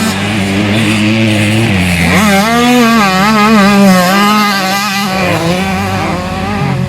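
Motocross bike engines running on a track. One engine holds a fairly steady note, then a second climbs sharply about two seconds in and rises and falls with the throttle for several seconds.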